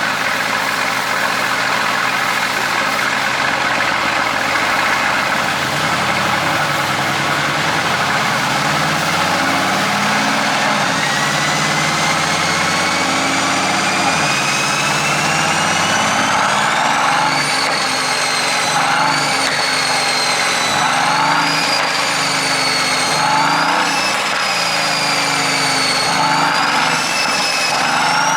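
Mercedes-AMG GT S's twin-turbo 4.0-litre V8 running steadily, then revved again and again, the revs climbing and dropping every couple of seconds. A high whine climbs with the revs, and brief crackles come as the revs drop, from an exhaust tune set up to pop on lift-off.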